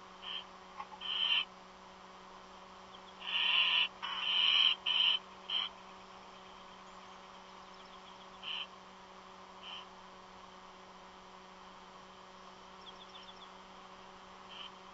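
Harsh, hissing screech calls from a bird that is not an eagle: short calls about a second apart, then a loud cluster of several between three and six seconds in, then a few fainter ones spaced out. A steady low electrical hum runs underneath.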